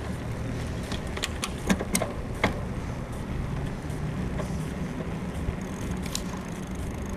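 Bicycle riding along with steady wind and road rumble, broken by a quick run of sharp creaks and clicks between about one and two and a half seconds in: the rear-suspension frame creaking that the rider blames on a worn suspension bushing. A faint, thin high whine starts near the end.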